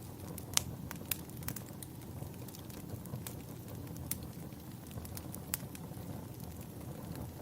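Campfire burning: a steady low rumble of flames with irregular sharp crackles and pops of burning wood, one louder pop about half a second in.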